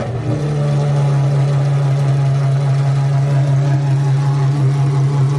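Pagani Huayra R's naturally aspirated V12 idling, a loud, steady engine note that settles slightly higher a moment in and then holds even.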